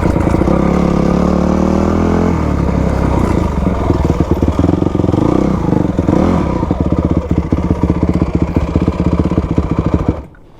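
A 2000 Yamaha YZ250's two-stroke single-cylinder engine running hard as the dirt bike is ridden, its pitch rising and falling with the throttle. The sound stops suddenly near the end.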